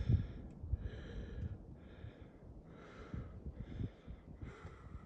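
A man breathing hard in a steady rhythm, about one breath a second, with low thumps underneath.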